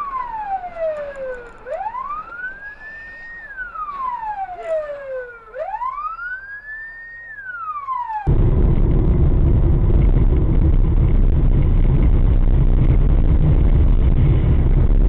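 Emergency vehicle siren wailing, rising and falling about every four seconds. After about eight seconds it cuts off abruptly, giving way to a louder steady low rumble of a vehicle on the move.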